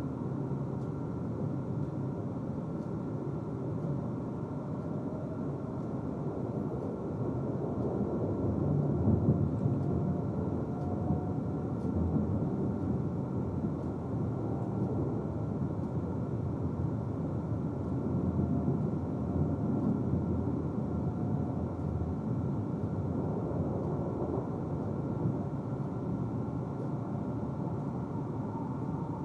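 Cabin noise of a Tohoku Shinkansen train under way: a steady low rumble of running gear and track, swelling a little about nine seconds in.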